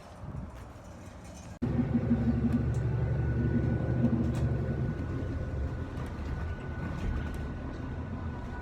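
Bus engine running with a steady low rumble, jumping much louder after an abrupt cut about a second and a half in, with a faint steady whine above it.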